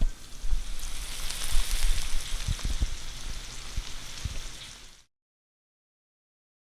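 Food sizzling and crackling in a hot pan, with a few low knocks, fading out about five seconds in and followed by dead silence.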